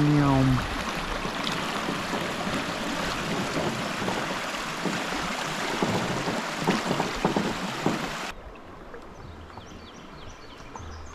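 Creek water rushing and splashing, loud and steady. About eight seconds in it cuts to a much quieter scene with faint, high bird chirps.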